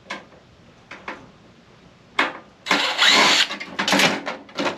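A microwave being taken apart: a few light clicks, then about two seconds in a sharp knock and a burst of rattling, scraping noise from its metal parts, with more clatter near the end.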